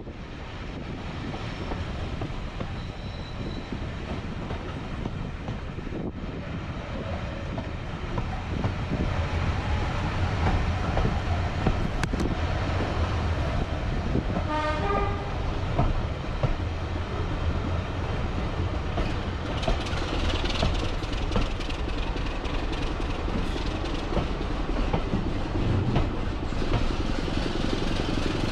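Heritage railway train running, its rumble and rail noise building over the first several seconds as it picks up speed, then holding steady. About halfway through comes a brief falling run of notes.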